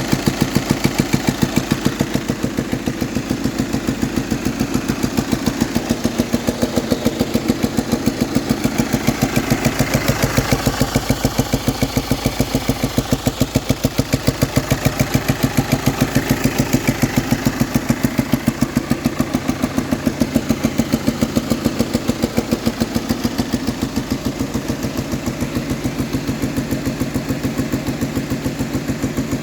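VW Passat engine idling with a fast, regular ticking throughout. This is the noise of worn camshaft followers, which four new followers cured.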